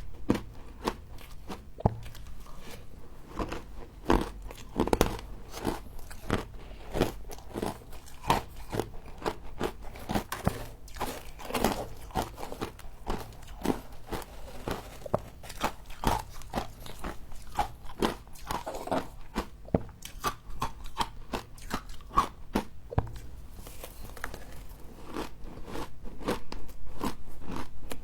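A person biting and chewing frost: many crisp crunches in quick, irregular succession, louder near the end.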